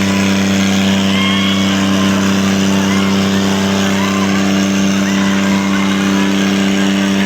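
Tractor diesel engine running loud and steady at constant speed, its pitch holding unchanged throughout.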